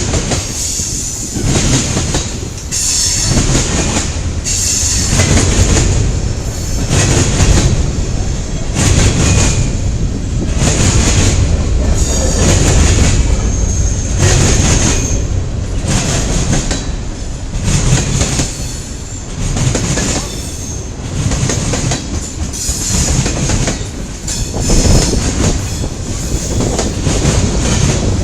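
CN train's railcars rolling past, their wheels clacking over the rail joints in a regular beat about once a second, with a thin wheel squeal in places.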